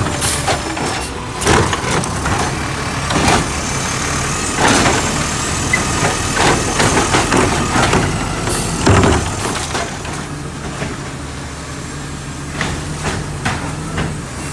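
Garbage truck engine running steadily while trash cans bang and clatter against the truck as they are emptied: a string of knocks, the heaviest about nine seconds in.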